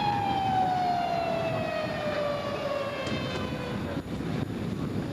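A siren winding down: a single tone with overtones falls slowly and steadily in pitch and dies away about four seconds in. Wind rumbles on the microphone underneath.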